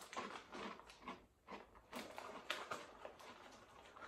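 A person chewing a crunchy potato snack, a Cofresh Chilli Cheese Grill: faint, irregular crunches.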